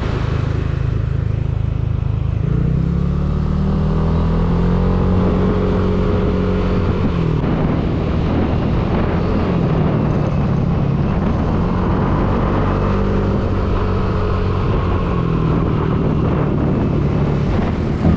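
Motorcycle engine running under way, its pitch rising and falling several times as the rider accelerates and eases off, over a steady rushing noise.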